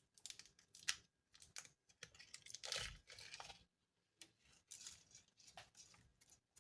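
Faint crinkling and tearing of Maggi seasoning-cube wrappers as the cubes are unwrapped, with scattered small clicks and rustles.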